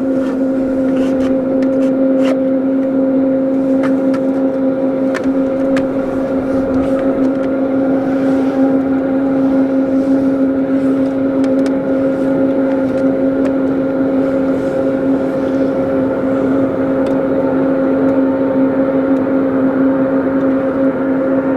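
Jet airliner engines running, a steady drone with a constant low hum and a higher tone over a rushing noise, holding even in level throughout.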